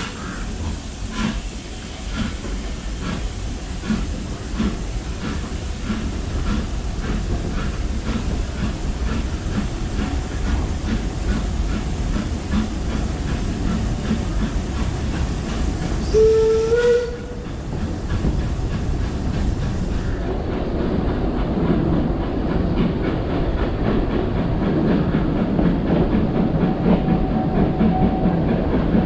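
Narrow-gauge steam locomotive pulling away, its exhaust chuffs coming faster as it gathers speed. A short steam whistle sounds more than halfway through, then the train runs on with a steady rumble and wheel clatter from the carriages.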